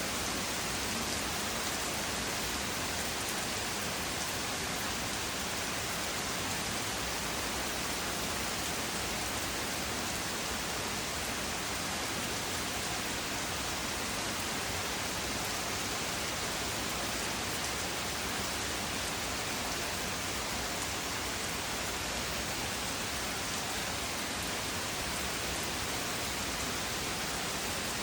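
Rain falling steadily, an even hiss that holds at one level throughout, with no thunderclaps.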